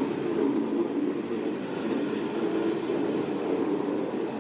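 Berner Oberland Bahn narrow-gauge train running steadily along the track, an even noise of wheels on rails and running gear.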